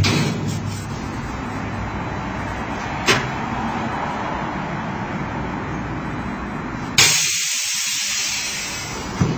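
Single-chamber vacuum packing machine going through its cycle: the vacuum pump's hum stops at the start, a click comes about three seconds in, and about seven seconds in a sudden hiss of air rushes back into the chamber as it vents. A knock follows near the end.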